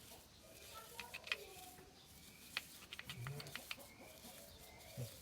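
Scattered light clicks and taps, a handful of them in two clusters, over a quiet background.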